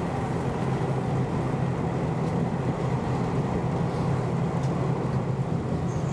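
Keio Inokashira Line train running, heard from on board: a steady low rumble of wheels and traction motors with no sudden changes.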